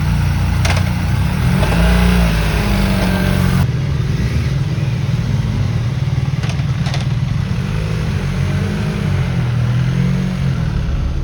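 Motorcycle engine running while riding, its pitch rising and falling several times as it revs up and eases off, over a steady rushing hiss. The upper part of the hiss drops away abruptly about a third of the way in.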